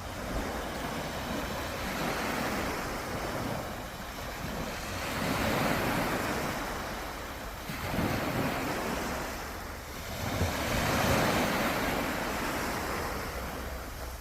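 Sea waves breaking and washing up the shore, surging about every three seconds, with wind rumbling on the microphone.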